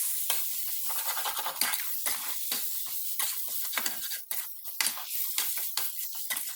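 A spoon stirring and scraping thick onion masala around a frying pan: quick, irregular scrapes against the pan, many a second, over a faint hiss.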